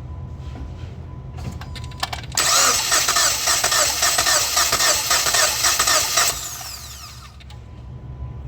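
Starter cranking the Jeep Patriot's 2.4-litre four-cylinder engine for about four seconds, then stopping suddenly and winding down. This is a compression test on cylinder 3, which reads only about 75 psi against about 195 on its neighbour: low compression from a valve problem.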